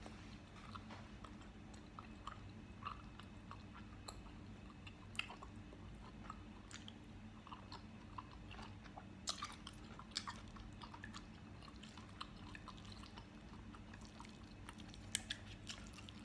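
A person chewing a mouthful of cheesy spicy noodles and rice cake close to the microphone: soft, wet smacking and clicking mouth sounds, with a few sharper clicks about five, nine and ten seconds in and again near the end.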